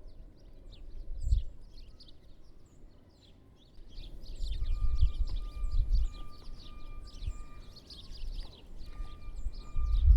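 Small songbirds around the feeders giving many short, high chirps, thickening after about four seconds. A steady high whine sounds through the second half, and a low rumble swells near the start and again at the end.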